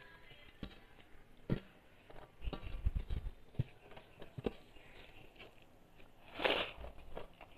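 Close mouth sounds of a person eating rice by hand: chewing, lip smacks and scattered soft clicks, busiest a little under three seconds in. A brief louder rushing noise comes about six and a half seconds in.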